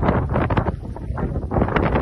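Wind buffeting the microphone, a low rumble with irregular gusts.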